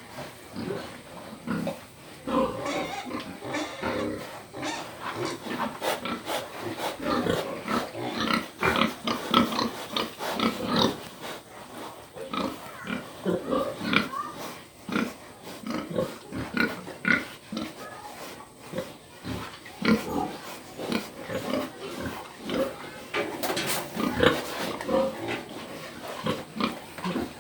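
Pig grunting, many short grunts one after another.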